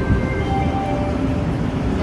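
Sapsan high-speed electric train (EVS1) rolling slowly along the platform: a steady rumble of wheels and running gear, with brief faint whining tones at changing pitches.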